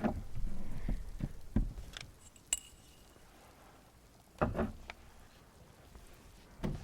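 Glass clinking and small knocks as a glass is handled and set down, in scattered taps: a cluster at the start and another a little past the middle.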